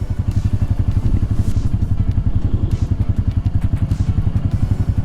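Motorcycle engine running at low, steady revs, its firing beat coming through as an even, rapid pulse.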